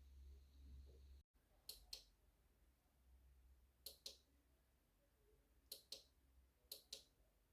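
Faint, sharp clicks in four pairs, the two clicks of each pair about a quarter second apart.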